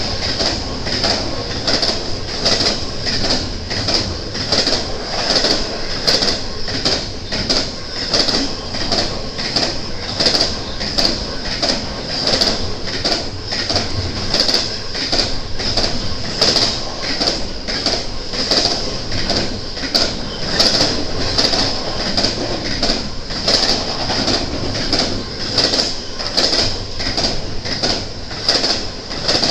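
Freight cars of a BNSF intermodal train rolling past, the wheels clicking over the rail joints in a steady rhythm of about one and a half clicks a second, over a steady high-pitched whine.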